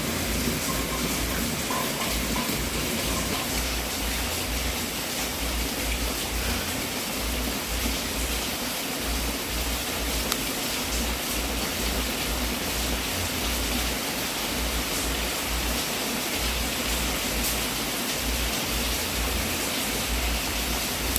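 Wood fire burning in a fireplace: a steady hiss with a few faint crackles and pops.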